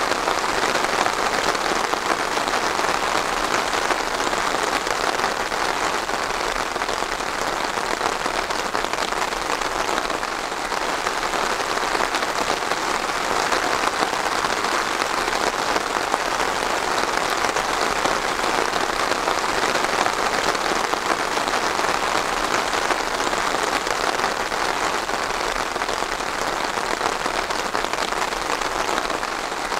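Steady rainfall, an even wash of many drops hitting a surface without a break.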